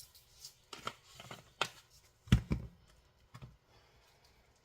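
Kitchen handling noises while food is prepared in a pan: a few short rustles and light knocks, with one louder thump a little past two seconds in.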